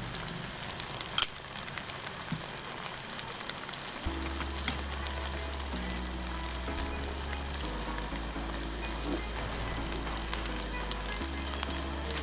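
Beaten eggs and stir-fried vegetables sizzling in hot oil in a wok, a steady crackle of frying, while a spatula works the egg; a sharp tap about a second in. Low background music comes in about four seconds in.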